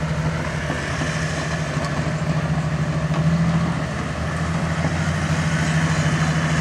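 Farm tractor engine running steadily at a constant pitch.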